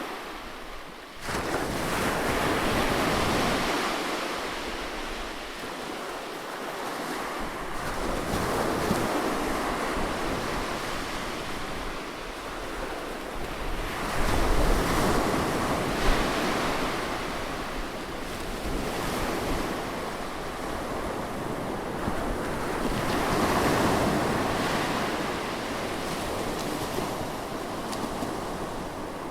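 Ocean surf breaking on a beach, a rushing hiss that swells and eases with each wave several times over, loudest about halfway through.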